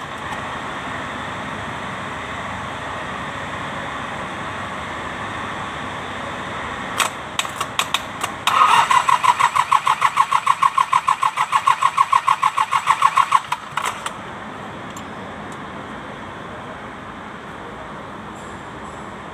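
Mitsubishi K3E three-cylinder diesel of an MT18 tractor being turned over by its starter. A steady mechanical sound is followed by a few clicks, then about five seconds of rhythmic cranking pulses, about five a second, before it settles to a quieter steady sound.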